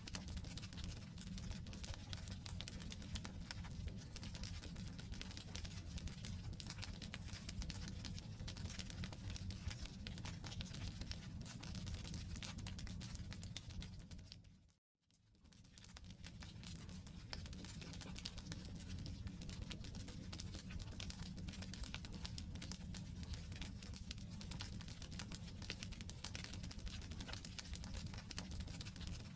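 Wood campfire burning: dense, continuous crackling and popping of logs over a low rumble. About halfway through the sound fades out to silence and fades back in within a second or two.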